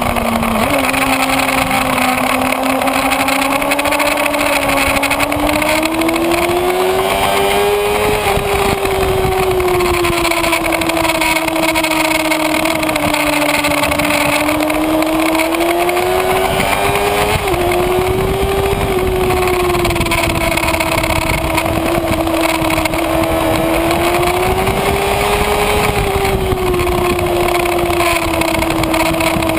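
Kawasaki Ninja ZX-6R inline-four engine running hard under load, its note climbing and easing slowly with the throttle and stepping at gear changes about a second in and around two-thirds of the way through. Heavy wind noise runs under it.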